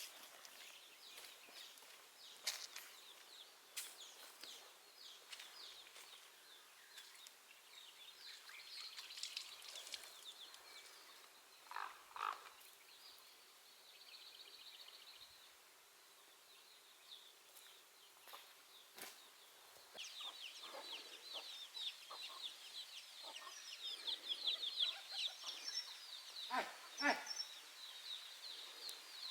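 Chickens clucking, with many short high chirps that grow dense in the second half. A few sharp knocks are scattered through.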